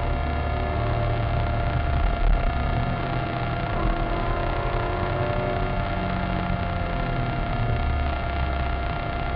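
Maserati Cambiocorsa's 4.2-litre V8 heard from inside the cabin while the car is driven, a steady low rumble with road and wind noise that swells and eases a little.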